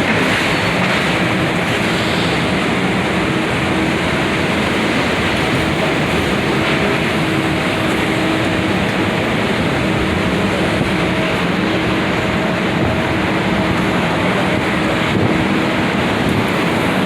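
Steady city street noise of traffic and wind buffeting the microphone, with a faint hum that comes and goes.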